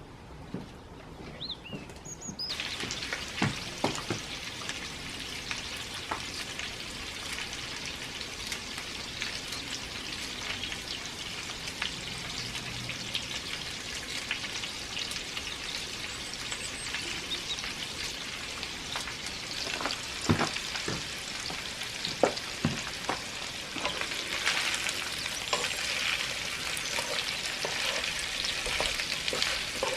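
Boiled new potatoes sizzling in butter in a pan, starting suddenly a couple of seconds in and growing louder near the end, with occasional knocks of a utensil against the pan as they are stirred.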